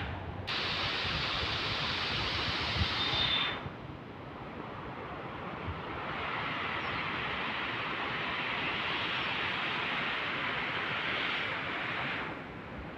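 Steady outdoor rushing noise with no clear pattern, changing suddenly in level and tone about three and a half seconds in and again near the end.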